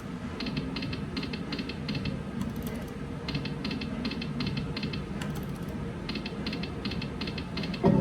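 Slot machine reels spinning: runs of quick, evenly spaced electronic ticks, about five a second, stopping and starting in groups, over a low casino hum. Just before the end a louder game sound starts.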